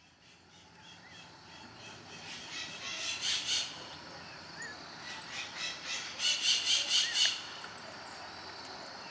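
A flock of saffron finches chirping and calling together, with two louder runs of rapid repeated notes, about three seconds in and again around six to seven seconds in.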